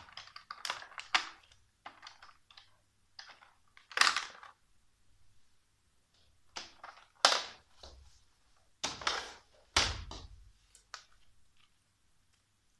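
Plastic parts of an iRobot Roomba 886 robot vacuum being handled and snapped back into place during reassembly: irregular clicks and knocks, a few of them sharp and loud.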